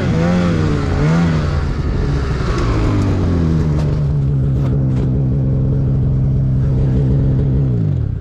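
Snowmobile engine under throttle. Its pitch wavers up and down for the first second or so, then it holds a steady pitch for several seconds before falling away quickly right at the end as the throttle is let off.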